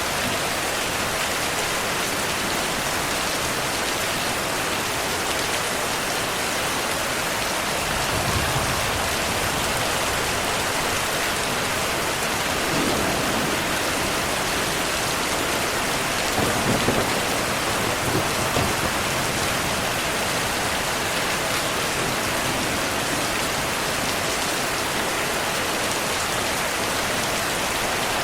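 Heavy rain falling steadily, with low rolls of thunder swelling briefly several times: near a third of the way in, and again past the middle.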